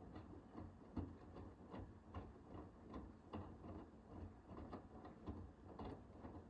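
Hoover H-WASH 500 washing machine in its wash phase, the drum turning with the laundry tumbling, making faint, irregular soft knocks about three times a second over a low rumble.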